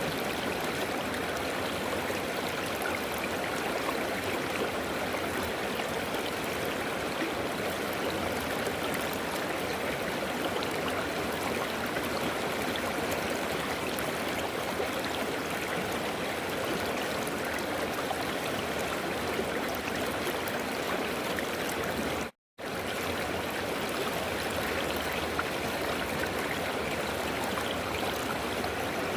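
River water flowing steadily, a continuous rushing and gurgling. It cuts out to silence for a fraction of a second about three quarters of the way through, then resumes unchanged.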